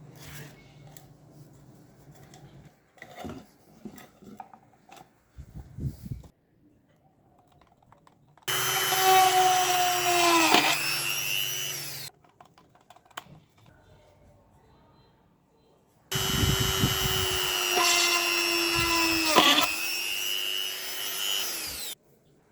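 A small high-speed power tool, such as a mini drill or rotary tool, runs in two bursts, the second longer than the first. Its whine dips in pitch briefly in the middle of each burst, as if it is biting into the work, and winds down as it is switched off. Before that come scattered light clicks and handling noises.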